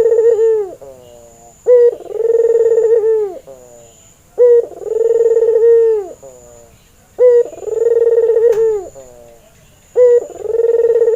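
Barbary dove (burung puter), a white albino bird, cooing over and over. Each coo is a short note followed by a long, held, slightly wavering note, and a new coo begins about every three seconds, four of them in full here.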